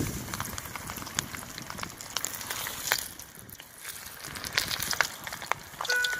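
Battered chicken wings sizzling in hot oil in a steel wok as they are lowered in, a steady hiss scattered with sharp crackling pops. Music comes in near the end.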